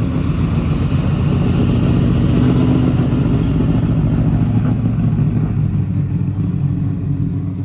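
Car engine running with a loud, steady low rumble, swelling slightly a few seconds in.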